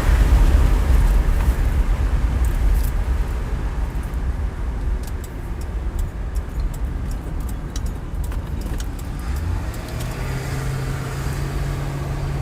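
Car heard from inside with the windows down: road and wind rumble that eases off, a few faint clicks, then a steady low engine hum from about ten seconds in.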